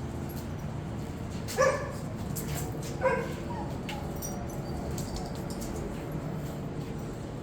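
Dog barking twice, two short sharp barks about a second and a half apart.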